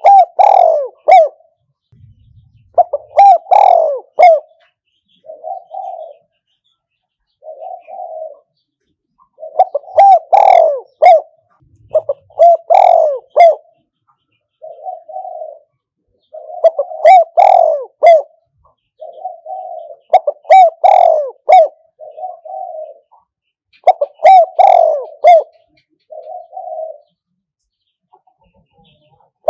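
Spotted dove cooing over and over, the calling of a decoy dove used to lure wild doves into a trap. Louder phrases of several coos come every few seconds, with softer, shorter coos between them.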